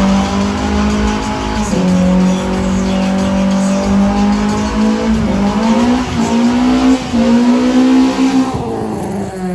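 Car engine held at high revs with tyres squealing, the revs dipping briefly twice and falling away near the end.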